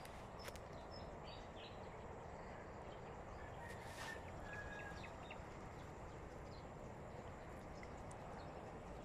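Faint outdoor ambience: scattered short, high bird chirps over a steady low hiss, with a few soft clicks.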